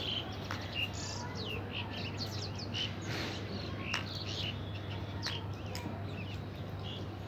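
Several small birds chirping and calling in quick, overlapping short notes, many of them sweeping down in pitch, over a steady low hum.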